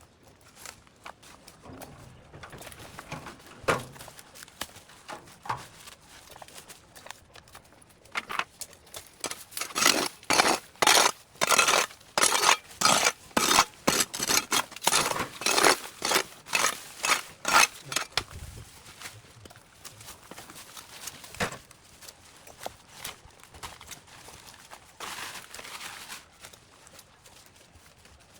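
A run of sharp, clinking strikes, about two a second, lasting some ten seconds in the middle, with fainter scattered knocks before and after.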